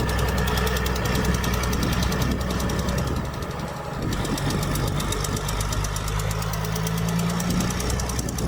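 Heavy diesel engine of earthmoving machinery running steadily under load, with a fast, even mechanical clatter over it and a brief easing about halfway through.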